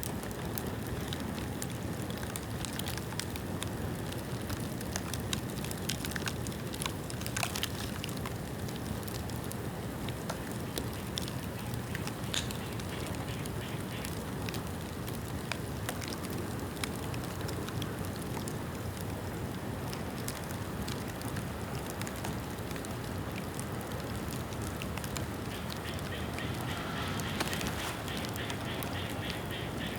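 Bonfire of rain-wet bamboo burning: a steady rush of flame with many scattered sharp crackles and pops, a couple of them louder snaps.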